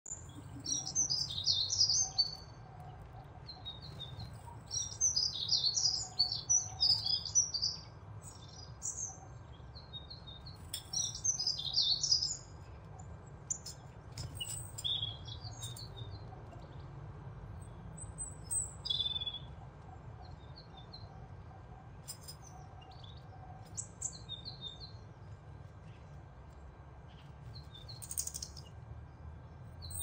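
Small birds chirping and twittering in quick clusters, busiest in the first twelve seconds and sparser after, over a low steady hum.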